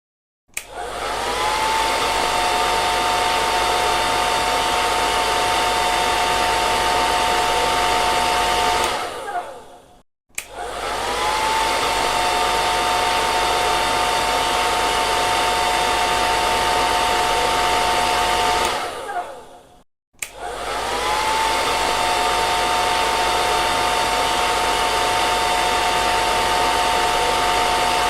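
Hair dryer switched on and off three times. Each time the motor whines up to speed, runs with a steady whine over rushing air for about eight seconds, then is switched off and winds down.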